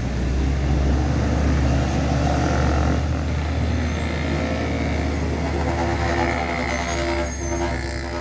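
Heavy diesel truck engine labouring up a steep grade, a deep drone that swells over the first couple of seconds and then slowly eases. A second, higher-pitched droning note joins in over the last few seconds.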